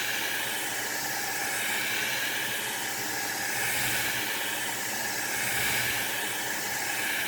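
Revlon hair dryer running steadily on its high setting: a continuous rushing hiss of blown air with a faint steady whine.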